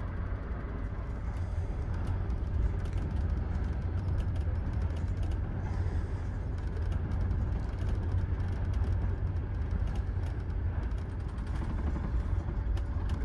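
Type 25G soft sleeper coach running along the track, heard from inside the compartment: a steady low rumble with scattered light clicks and rattles.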